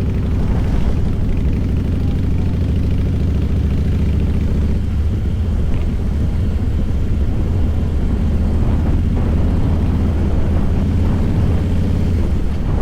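Harley-Davidson Fat Boy's air-cooled V-twin engine running steadily on the move, a deep, even exhaust rumble at a constant pace.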